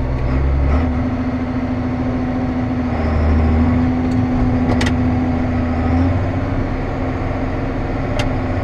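Tractor engine running steadily, a low, even drone with a faint tick or two.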